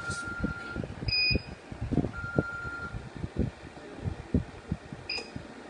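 Two long, steady electronic beeps, each just under a second, one at the start and one about two seconds in, typical of the Su-Kam Cosmic inverter's buzzer as it is powered up for testing after an IC replacement. Shorter, higher chirps come about a second in and near the end, over irregular soft knocks of handling.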